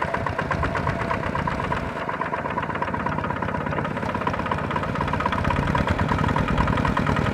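Tractor engine running steadily with a rapid, even pulsing beat.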